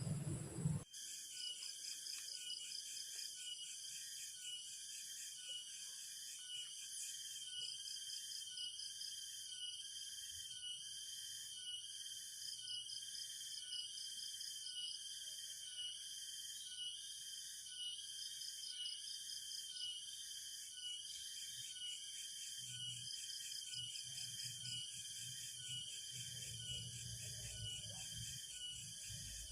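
Chorus of rain-forest insects, high-pitched and steady, pulsing in a regular beat about once a second. Faint low rustling comes in near the end.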